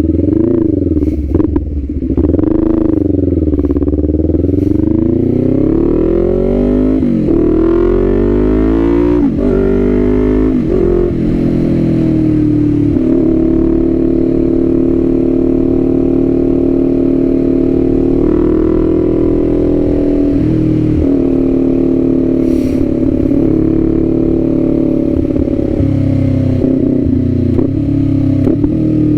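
Kawasaki Z400's 399 cc parallel-twin engine pulling through the gears, its pitch rising and dropping back at each shift for about the first eleven seconds, then running at steady cruising revs, with one more brief rise about eighteen seconds in.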